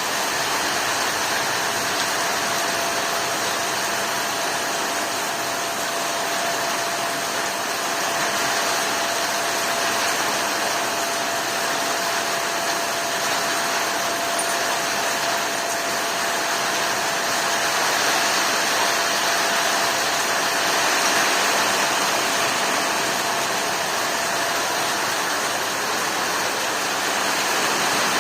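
Heavy rain falling steadily, an even hiss. A thin, steady hum sits under it and stops near the end.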